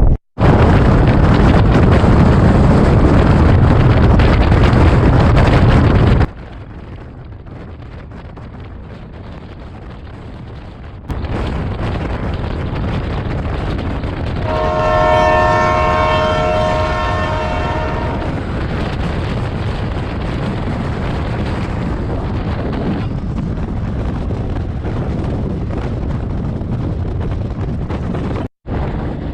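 Passenger train running, a steady rushing rattle that is loudest in the first few seconds and drops sharply after about six seconds, with two abrupt cuts. About halfway through, a train horn sounds one chord of several tones for about three and a half seconds.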